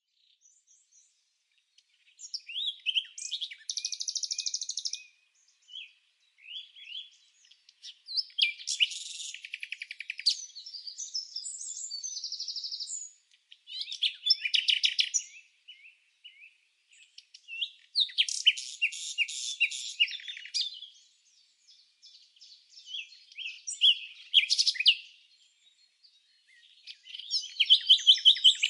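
A bird singing in short phrases of rapid chirps, trills and buzzy notes. Each phrase lasts one to three seconds, with brief pauses between them.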